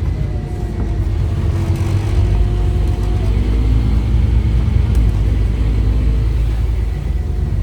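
Scania OmniCity double-decker bus with a Scania DC9 engine and ZF Ecomat automatic gearbox, under way: a steady low engine rumble with a faint whine over it.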